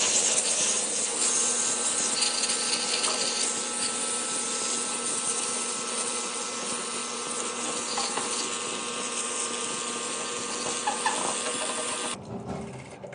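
A power tool running steadily, then cutting off suddenly about twelve seconds in.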